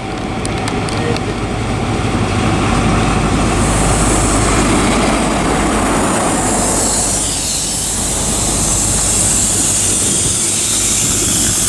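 Diesel train running close by the platform: steady engine and wheel noise, with a high hiss that builds about four seconds in.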